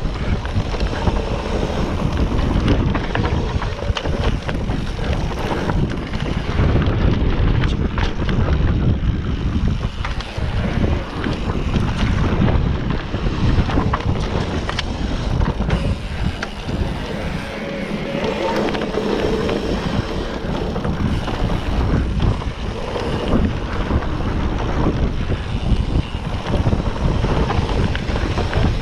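Wind buffeting the microphone over the rush of a mountain bike riding a dirt trail, with frequent short rattles and knocks as the bike rolls over bumps.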